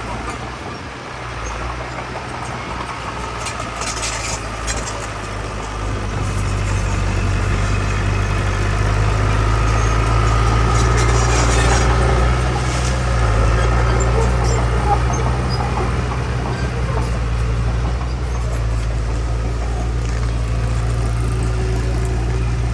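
Diesel engines of heavy earthmoving machinery running with a steady low rumble that grows louder about six seconds in and peaks about halfway through.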